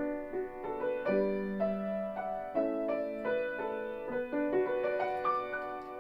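Solo piano playing a slow, gentle melody over chords, the notes ringing on into one another.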